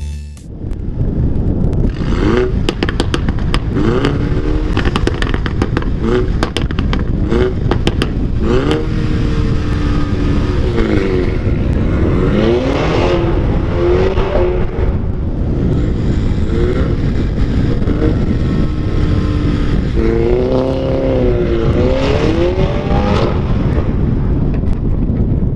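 Mini Challenge 210's turbocharged four-cylinder engine revving up and down repeatedly as it accelerates and changes gear, over a steady rumble of wind on the microphone. A run of sharp clicks sounds over the first several seconds.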